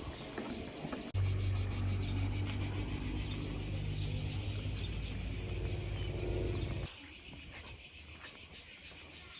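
Chorus of crickets, a steady high, fast-pulsing chirring. A low steady drone joins suddenly about a second in and drops out near the end.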